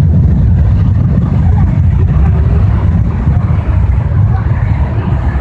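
Boeing 737 jet engines at takeoff power: a loud, steady low rumble with a noisy roar above it, easing slightly near the end.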